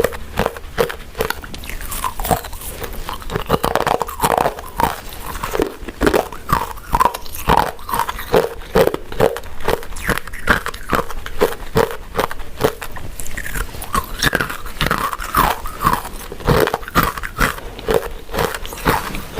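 Close-miked chewing of soft, sticky glutinous rice desserts: a steady run of wet mouth smacks and bites, about two to three a second.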